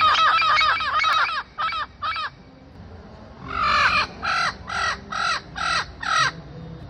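A bird giving short, harsh repeated calls: a fast run of about eight, two more, then after a pause a slower series of about six louder calls.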